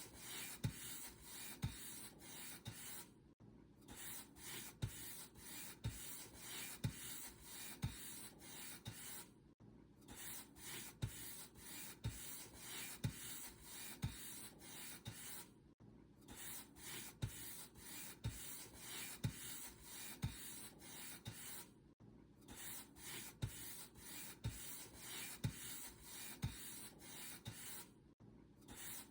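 Paint brush stroking back and forth over a surface: a steady rhythm of bristly swishes, each with a soft low thud, and a brief break about every six seconds.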